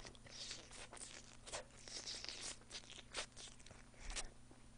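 Person chewing crispy fried chicken close to the microphone: faint, irregular crunches and mouth clicks.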